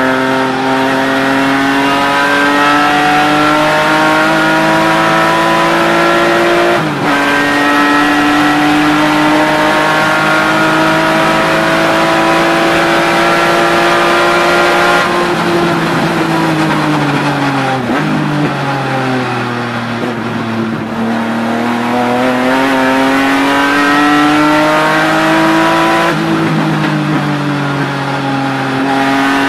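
BMW E36 M3 race car's straight-six engine at racing speed, heard from inside the cabin. The revs climb, drop sharply with an upshift about seven seconds in, then hold high; around the middle they fall away and then climb again.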